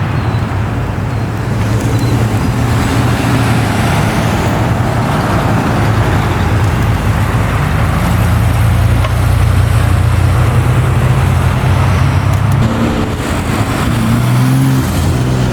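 Car engine running at low revs, a steady low note over a hiss of outdoor noise, its pitch changing about twelve and a half seconds in.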